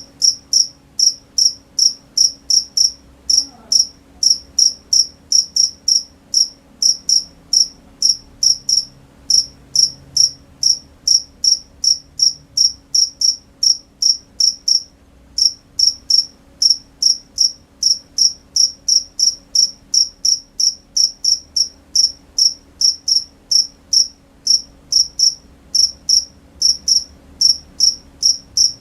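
A cricket chirping steadily, short high chirps about three a second, with two brief pauses partway through.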